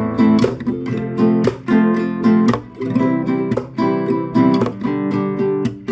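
Acoustic guitar strumming chords in a steady rhythm. It opens on an A minor chord, from a progression of A minor, F, C and G.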